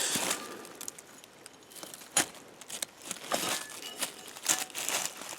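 Footsteps crunching and rustling through dry leaves and brush, with a sharp snap about two seconds in.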